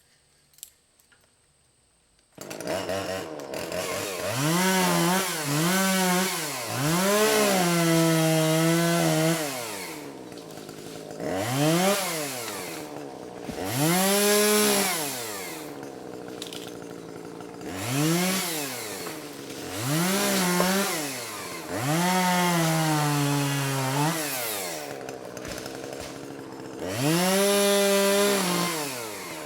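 Petrol chainsaw cutting small trees. It comes in abruptly after a couple of seconds of near silence, then revs up and drops back about nine times, with some revs held for a second or two while the pitch sags slightly.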